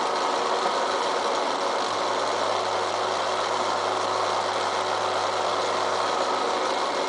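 Milling machine running with its cutter working on railroad-rail steel, a steady, even machining noise. The steel is work-hardening under the cut, which the machinist blames for the poor cut.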